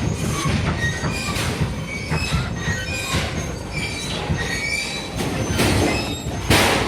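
An office building shaking in a strong earthquake: a continuous rumble and rattle with many short, high metallic squeals and creaks over it, and a sudden louder crash of noise near the end.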